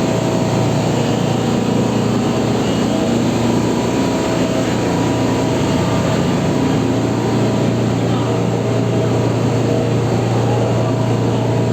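Ship's engine running steadily at about 98 revolutions a minute: a loud, even drone with a constant low hum.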